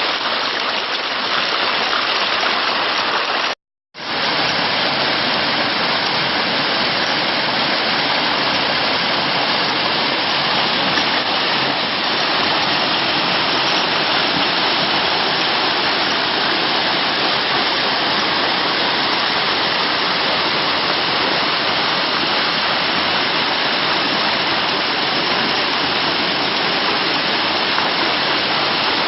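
Steady rushing of running water, as from a stream or waterfall: an even, loud hiss. It cuts out completely for a moment about three and a half seconds in.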